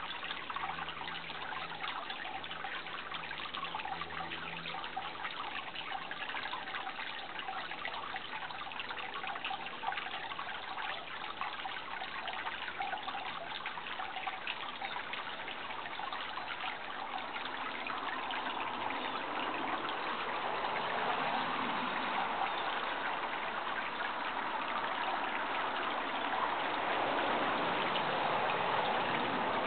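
Water trickling and running steadily, like a small stream, growing a little louder in the last third.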